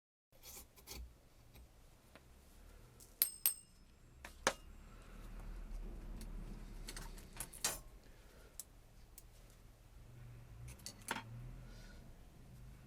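Small metal parts clinking and tapping as they are handled: scattered sharp clicks, a few of them ringing briefly, over a faint low hum.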